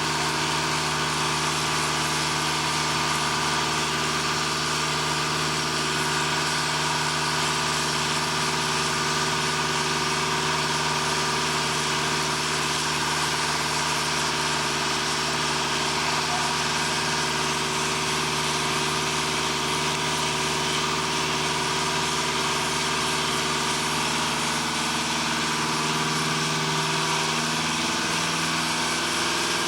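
Steady drone of running machinery, like an engine idling, with several held tones over a broad hiss; a few of the tones shift slightly near the end.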